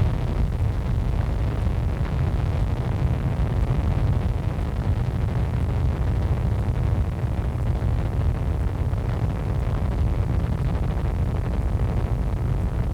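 Helicopter engine and rotor noise heard inside the cabin: a steady low rumble.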